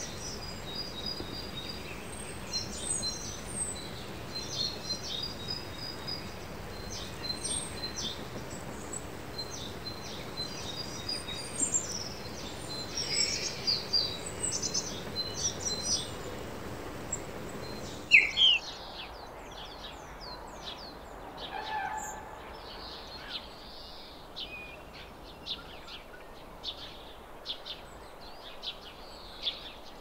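Several birds chirping and calling over a steady background hiss, with many short, high chirps. About two-thirds of the way through the background drops abruptly and a loud rising call rings out, followed by many short, sharp calls.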